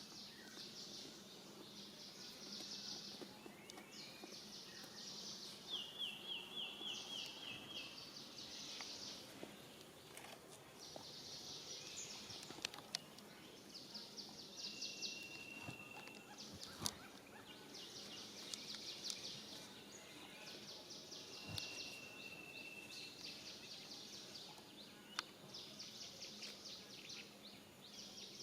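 Outdoor nature ambience: a high, pulsing buzz that comes in repeated bouts of a second or two each. A few short whistled calls and several sharp clicks are heard over it.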